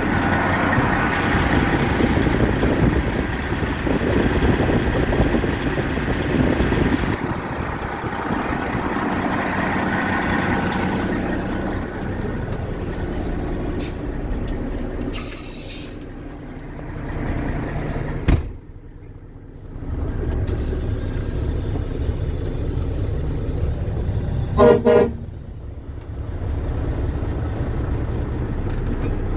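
Diesel engine of a 2007 International 9900i dump truck running steadily, with one short horn blast about three quarters of the way through.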